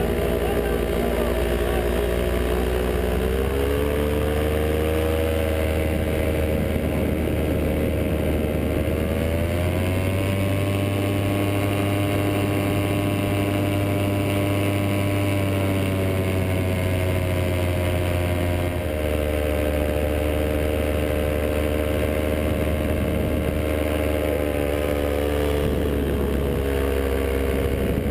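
Vittorazi Moster 185 single-cylinder two-stroke paramotor engine running steadily under power. Its pitch steps up about three seconds in, rises again near ten seconds, and drops back a little before the twenty-second mark as the throttle changes.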